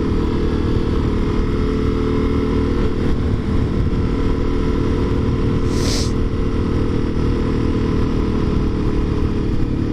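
Motorcycle engine running at a steady speed, its pitch holding even throughout. A brief high hiss comes about six seconds in.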